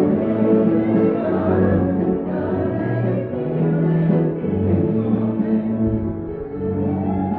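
A group of voices singing a yodel song with instrumental accompaniment, in held notes that change pitch every second or so.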